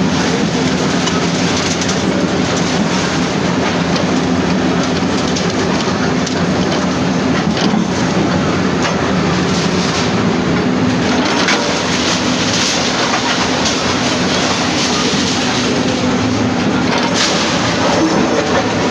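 Heavy demolition machinery's engine running steadily, with rattling and clanks over it.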